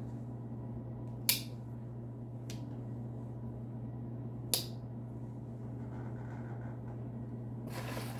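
Three sharp clicks, two loud and one faint, of a vintage slipjoint pocket knife's blades snapping shut, over a steady low hum; handling rustle begins near the end.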